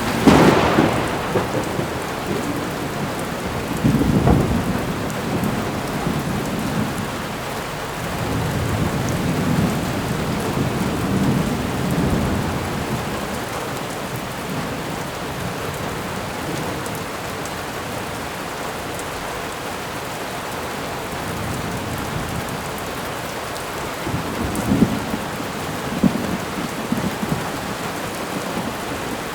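Thunderstorm: steady rain with rolling thunder. A sharp thunderclap right at the start, a rumble about four seconds in, longer rumbles through the middle and two more near the end.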